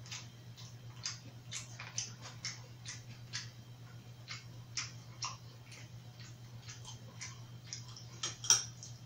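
Close-miked chewing and lip smacking while eating grilled pork belly: irregular wet clicks several times a second, with one sharper click about a second before the end, over a steady low hum.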